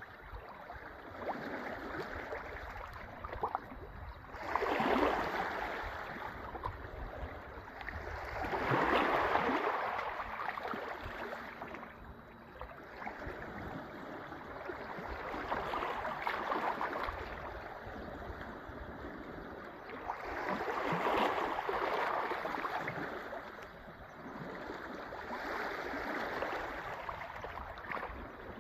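Sea waves washing in and out on the shore, the surf swelling and fading in about five surges, one every five seconds or so.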